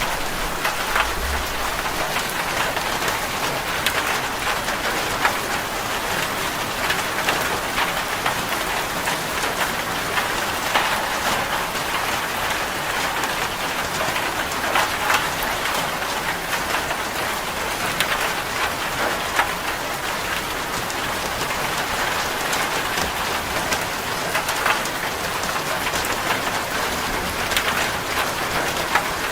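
Steady rain falling on a zinc sheet roof: a dense hiss of drops with many sharp individual drop ticks on the metal.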